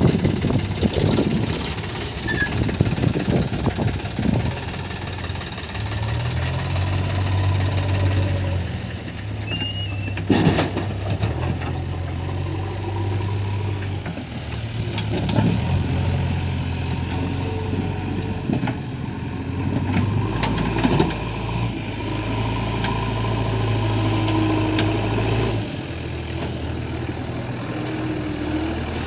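Diesel engine of a JCB 3DX backhoe loader running under working load, its pitch stepping up and down as it revs. A few sharp knocks stand out, the clearest about ten, fifteen and twenty-one seconds in.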